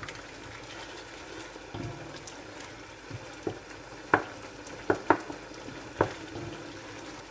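Minced chicken frying on high heat in a pot, a steady sizzle, while a wooden spatula stirs it, knocking sharply against the pot several times in the second half.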